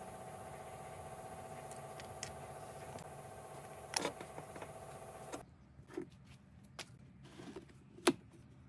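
Rebuilt Honda 125cc single-cylinder four-stroke motorcycle engine running steadily on test, stopping abruptly about five seconds in, followed by a few light clicks and knocks.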